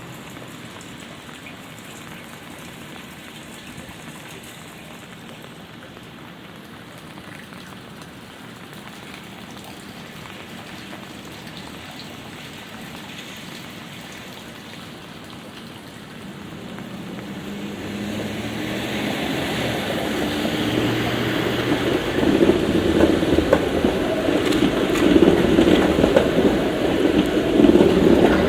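Light rain falling as a steady, even hiss. From about sixteen seconds in, a large vehicle approaches and grows loud, its deep rumble building and dominating the last several seconds.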